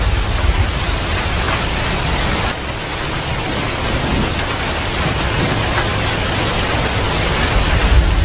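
Steady heavy rain. A low thunder rumble fades out in the first moments and builds again near the end.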